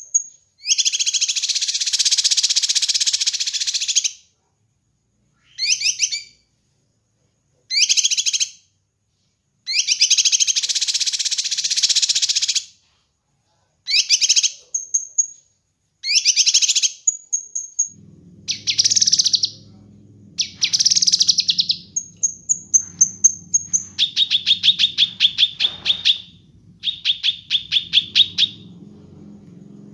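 Kinoi songbird singing in repeated bursts of rapid, high chattering trills and short thin whistles, separated by brief pauses, with a faster run of clipped notes near the end. A low steady hum comes in underneath about two-thirds of the way through.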